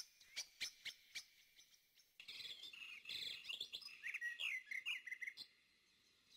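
Faint birdsong: a quick run of short chirps in the first second, then a warbling song of rapid rising and falling notes from about two seconds in until just before the end.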